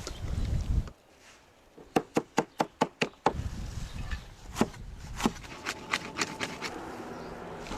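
A quick, even run of about seven sharp knocks about two seconds in, then scattered single knocks over a low, steady background noise.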